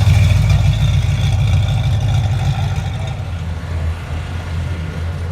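Car engine running with a deep rumble, loudest at the start and fading over the next few seconds as it moves off.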